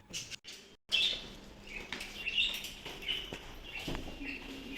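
Birds chirping, a string of short high calls repeated every second or so over faint background noise, beginning about a second in after a brief silence.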